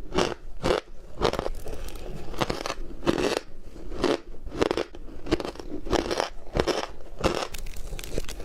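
A person chewing ice, a steady run of crisp crunches at about one and a half bites a second.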